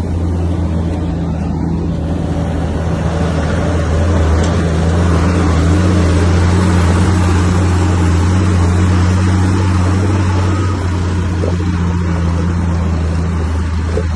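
Komatsu bulldozer's diesel engine running steadily with a deep hum. It gets louder about four seconds in and eases off again near the end.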